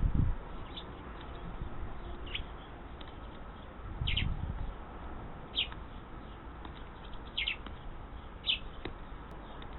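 Small songbirds giving short, high chirps, about six of them spaced a second or more apart, with low muffled rumbles at the start and about four seconds in.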